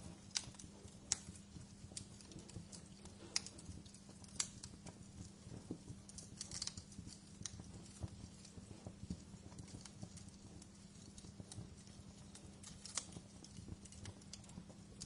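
Wood fire burning in a fireplace: a low steady rumble of flames with irregular crackles and sharp pops of burning logs, a few louder snaps scattered through.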